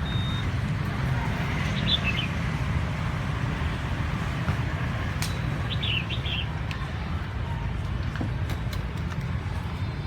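A songbird giving a short chirp about two seconds in and a quick run of chirps about six seconds in, over a steady low rumble.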